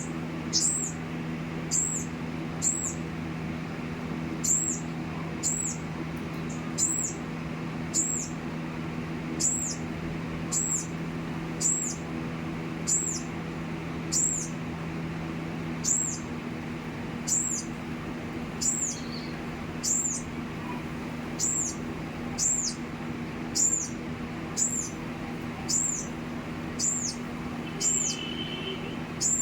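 A small bird calling over and over with a short, very high, downward-sweeping chirp, a little more than once a second, steady and regular.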